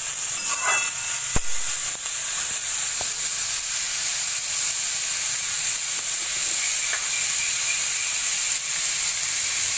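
Sliced onion, capsicum and beetroot sizzling steadily in hot mustard oil in a kadhai. A steel spatula scrapes and knocks against the pan in the first second and a half, the sharpest knock about a second and a half in.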